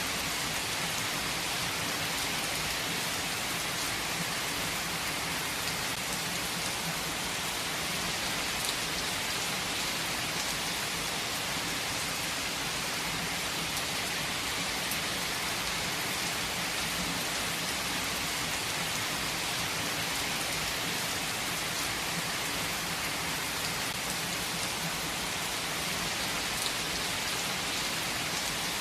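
Heavy rain falling steadily: a dense, even hiss of rain on surfaces, with a few sharper drop hits standing out now and then.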